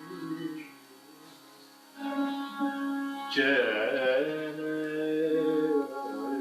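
Indian plucked string instrument playing raga Kirvani: long ringing notes with sliding pitch bends over steady ringing strings. It falls quiet briefly about a second in, resumes at two seconds, and a strongly struck note comes about three and a half seconds in.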